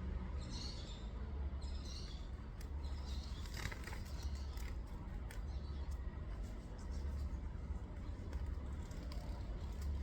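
Small birds chirping a few times in the first two seconds, followed by scattered short ticks and clicks, over a steady low rumble.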